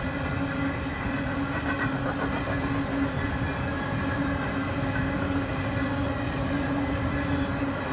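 Canadian Pacific freight train rolling past, a steady rumble of wheels on rail with a steady hum running through it.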